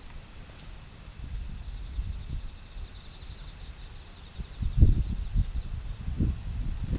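Typhoon wind gusts buffeting the microphone in low rumbling surges, the strongest about five seconds in, over a steady low rush.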